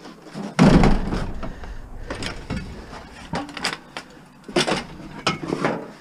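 A heavy metal range-top stove loaded into a van: one loud thud about half a second in, trailing into scraping, then a few lighter knocks.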